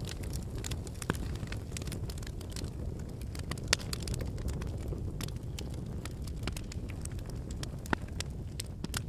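Wood bonfire burning: a steady low rumble of flames under frequent sharp crackles and pops from the burning logs. Louder pops come about a second in, near four seconds and near eight seconds.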